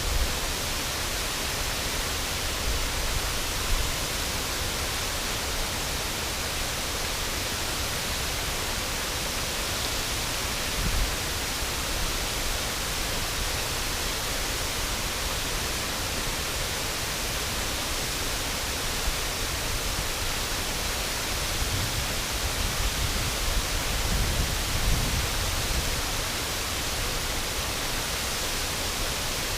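Steady rushing of a river waterfall, an even full hiss of falling water, with a few low rumbles about three quarters of the way through.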